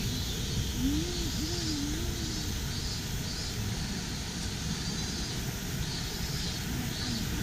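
Steady rushing of a mountain stream's flowing water, with faint high sounds repeating about once a second.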